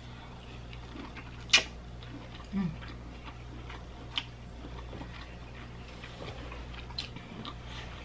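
Close-up eating sounds of lobster meat being chewed, with wet mouth clicks and lip smacks throughout. The sharpest click comes about a second and a half in, with others near four and seven seconds. A short low vocal hum comes between them.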